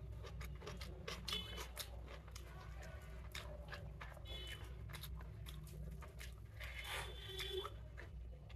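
Close-up eating sounds: chewing and crunching of chicken biryani with many small wet mouth clicks and smacks, while fingers mix rice on a plate. A steady low hum runs underneath.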